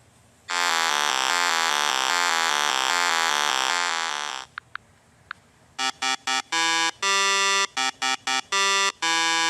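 Synthesized truck sound effects: a buzzy, rapidly pulsing tone for about four seconds, two faint clicks, then a run of horn-like beeps, some short and some long.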